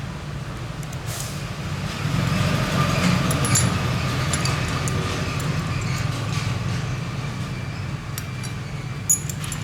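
A steady low mechanical hum, with a faint thin whine in the middle stretch and scattered light clicks.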